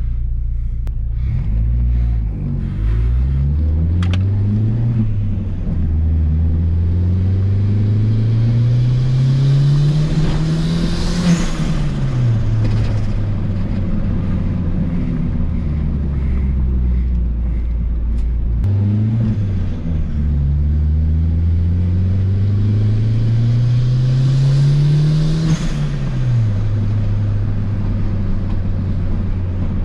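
Turbocharged Honda B18B1 four-cylinder in an Acura Integra, heard from inside the cabin, pulling under throttle. Its pitch climbs steadily for about five seconds and then drops as the throttle is lifted, twice, with a short sharp noise at the top of each pull and steady lower running in between.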